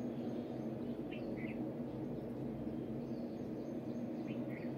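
Outdoor ambience: a steady low background hum, with short bird chirps in two quick pairs, one about a second in and another near the end.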